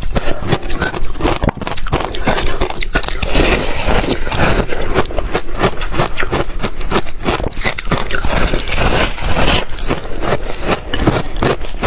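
Close-miked ice being bitten and chewed: a dense, continuous run of loud crunches.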